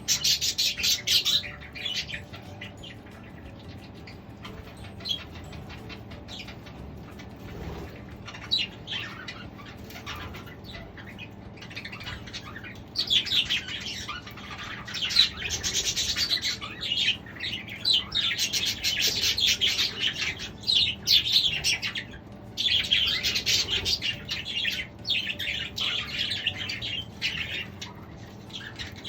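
A flock of budgerigars chirping and chattering in their cage, a rapid run of high chirps. It is sparser through the first part and grows much busier and louder about halfway through.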